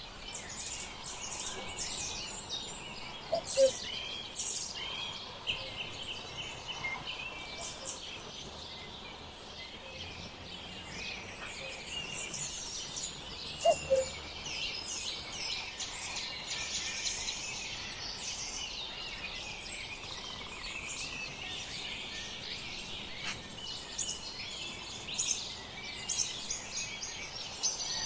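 A chorus of small songbirds chirping and singing continuously, many high calls and trills overlapping. Twice, about three and a half seconds in and again near fourteen seconds, a short lower note stands out as the loudest sound.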